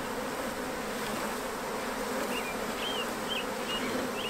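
A honey bee swarm buzzing in a dense, steady hum as it is shaken and knocked into a hive box; the bees are cranky and stinging.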